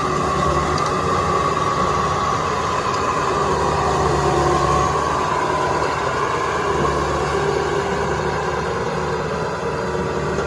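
Two-wheel walking tractor's small diesel engine running steadily, its pitch wavering slightly.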